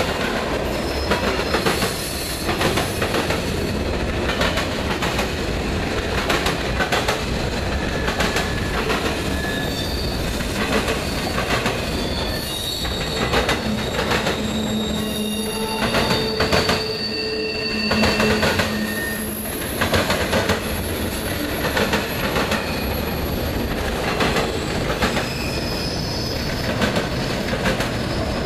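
Freight cars rolling past close by, their wheels clanking hard over a rail crossing diamond again and again. Steel wheels squeal for several seconds midway through.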